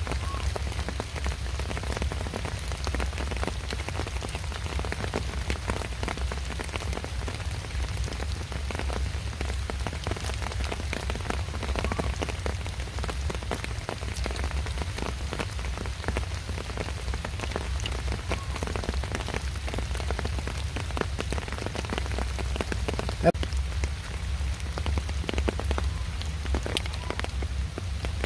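Rain pattering steadily, a dense spray of small drops, over a low rumble, with one sharper tick a little over 23 seconds in.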